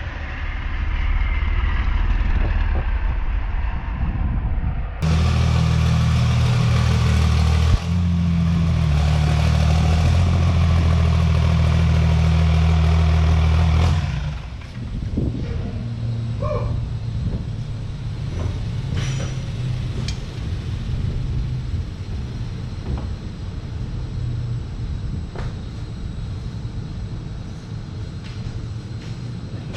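Cummins inline-six turbodiesel drag truck running hard under load on a chassis dyno, very loud and steady for several seconds, then cut off about fourteen seconds in. The dyno rollers and wheels then spin down freely for a long time with a lower rumble and scattered rattles.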